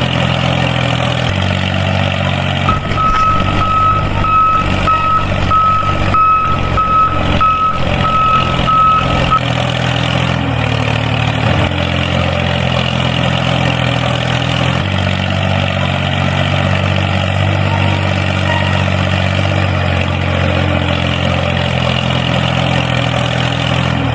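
Tractor engine running steadily, its pitch stepping up and down a few times. A high beeping tone sounds for several seconds early in the stretch.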